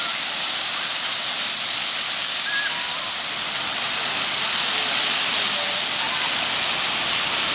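Water fountain jets falling and splashing into the basin: a steady, loud hiss of water.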